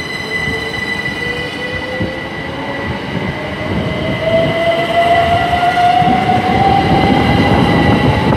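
Two coupled Class 387 electric multiple units pulling away from a station: the electric traction whine rises steadily in pitch as the train accelerates, over a growing rumble of wheels on rail that gets louder in the second half.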